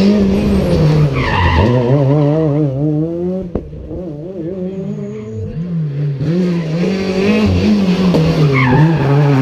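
Rally car engine revving hard and wavering up and down through tight corners, with tyre squeal. A sharp crack comes about three and a half seconds in, and the engine goes quieter for a couple of seconds before picking up again.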